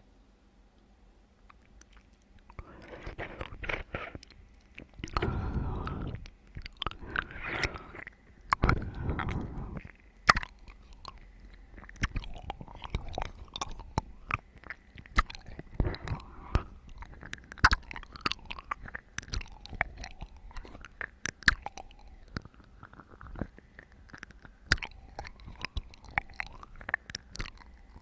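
Close-up ASMR mouth sounds of watermelon being bitten and chewed: starting a couple of seconds in, a few louder wet bites, then steady chewing with many small sharp clicks and crunches.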